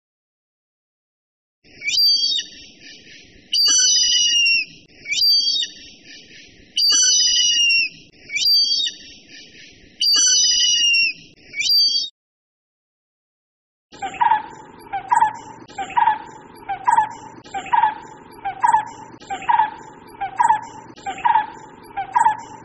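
Two different recorded bird calls, one after the other. First comes a high two-toned call repeated about every second and a half for some ten seconds. After a short silence, a lower, quicker call follows, repeating about once a second.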